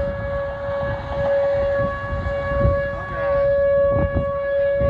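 Outdoor warning siren sounding one steady, unwavering tone, the kind sounded as a tornado warning, over low rumbling noise.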